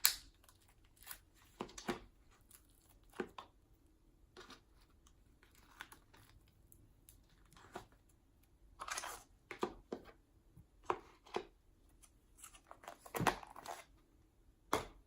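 Slime being pulled apart and torn off by hand: scattered soft sticky tearing and crinkling sounds with quiet gaps between, busiest about nine seconds in and again near the end.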